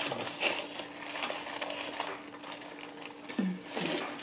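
Close-miked wet chewing and biting of a large hamburger, with soft crinkling of its paper wrapper, many small clicks and smacks. Two short low hums from the eater come near the end.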